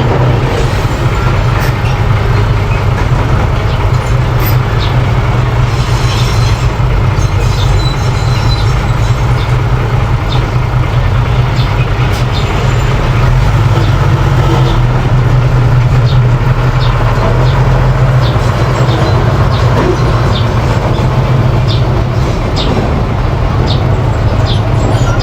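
Mini bulldozer's engine running steadily, with intermittent metallic clanks.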